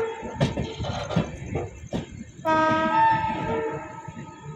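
Passenger train running, with irregular knocking and rattling of the coaches. About halfway through, the locomotive horn sounds once, a steady chord lasting about a second and a half.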